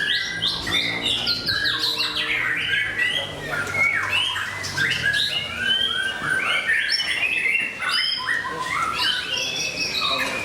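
White-rumped shamas (murai batu) singing: a dense, unbroken stream of loud whistled phrases, quick trills and harsh chattering notes that overlap one another.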